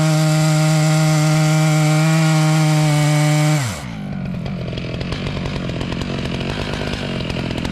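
Stihl MS 881 two-stroke chainsaw running at full throttle at a steady pitch. About three and a half seconds in, the throttle is let off and the engine drops quickly to idle.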